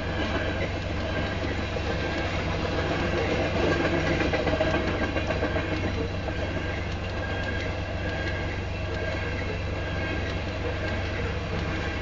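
Freight train of tank cars rolling past at speed: a steady rumble and clatter of steel wheels on the rails, with a faint, thin high ringing above it.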